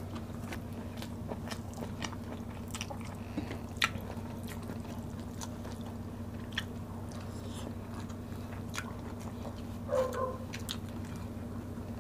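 Close-up eating sounds of rice and sautéed bitter gourd eaten by hand: wet chewing with scattered lip smacks and mouth clicks, one sharper smack about four seconds in, over a steady low hum. A short murmur from one of the eaters about ten seconds in.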